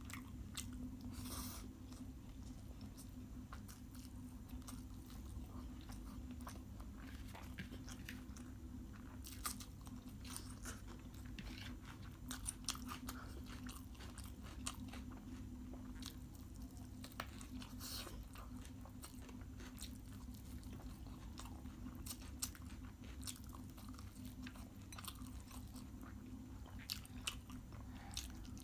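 A person chewing a mouthful of chicken biryani, with wet mouth smacks and soft scattered clicks, over a steady low hum.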